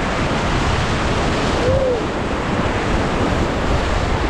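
Whitewater on the Trishuli River rushing steadily around a raft, with wind buffeting the microphone. A brief faint rising-and-falling hoot sounds about two seconds in.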